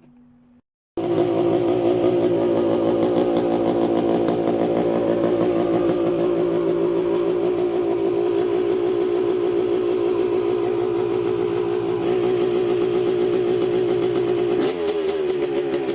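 A 1991 Honda CR250R's 250 cc two-stroke single-cylinder engine running steadily, starting abruptly about a second in; its note wavers slightly and shifts in pitch near the end.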